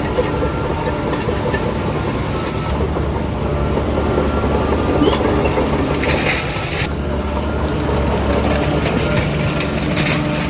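Heavy diesel earthmoving machinery running steadily, with a short hiss about six seconds in.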